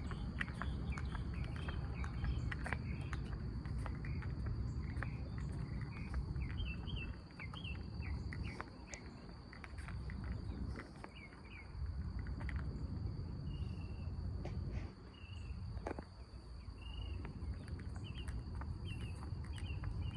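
Insects keep up a steady high-pitched trill while birds give short chirps, over footsteps and a low outdoor rumble.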